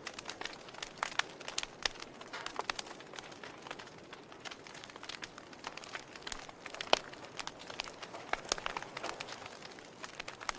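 A fire burning, with a steady soft hiss under frequent irregular crackles and sharp pops; the loudest pop comes about seven seconds in.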